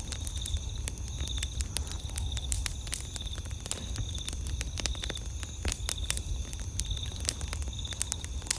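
Wood campfire crackling, with frequent sharp pops, over a steady high-pitched trill of night insects such as crickets.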